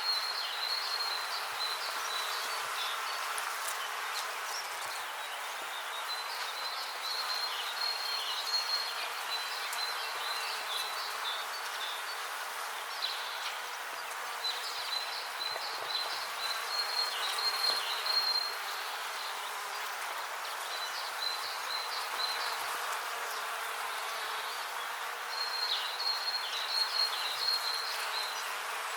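Many bees buzzing steadily, with runs of rapid high chirping that come and go every few seconds.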